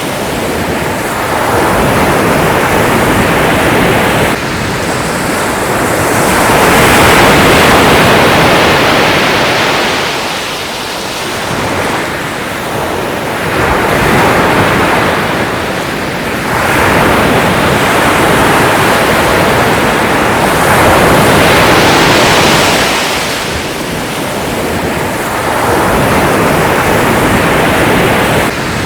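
Sea waves breaking and washing in, a continuous rushing hiss that swells and eases with each wave, about every three to five seconds.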